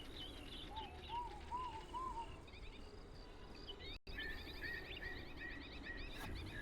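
Wild birds chirping and calling, many short high notes overlapping, with a run of four short arching whistles about a second in. The sound cuts out for an instant about four seconds in.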